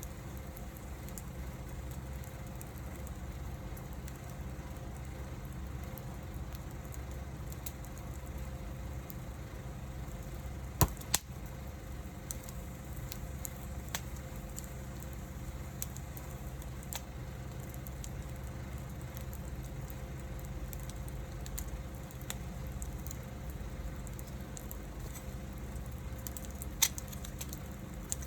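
Wood fire burning with a steady low rumble and scattered sharp crackles and pops; the loudest is a pair of pops about eleven seconds in.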